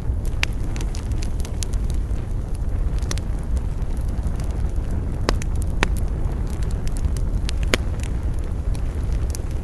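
Wood fire crackling in a fireplace: a steady low rumble of burning, with irregular sharp pops and snaps scattered throughout, several of them louder.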